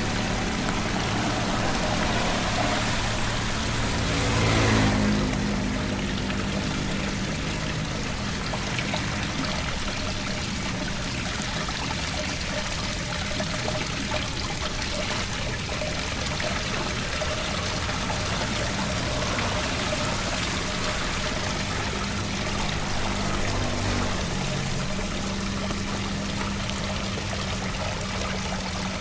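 Floodwater pouring steadily into a cleared storm drain, with a low steady hum underneath and a brief surge about five seconds in.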